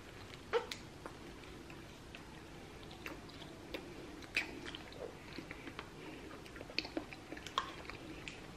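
Faint, irregular wet mouth clicks and smacks of someone chewing a slimy konjac jelly.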